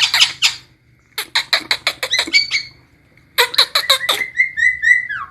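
Javan myna (jalak kebo) giving three runs of rapid, harsh clicking chatter, then near the end a short series of repeated whistled notes ending in a falling glide.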